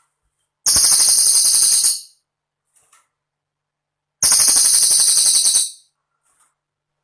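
Cililin calling: two high, rapid jingling trills, each about a second and a half long, about three and a half seconds apart.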